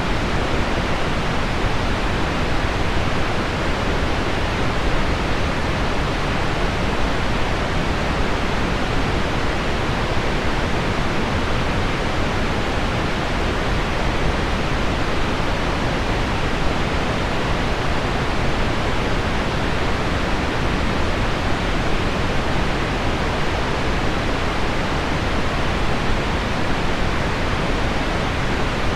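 Heavy rain on window glass blended with pink noise into one steady, dull hiss that never changes in level.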